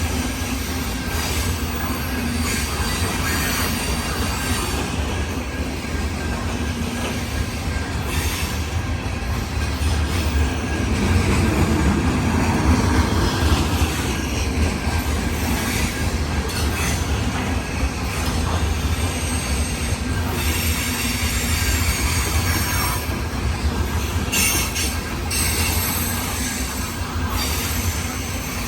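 Freight cars of a long grain train rolling past: a steady rumble of steel wheels on rail, with thin high-pitched wheel squeal coming and going.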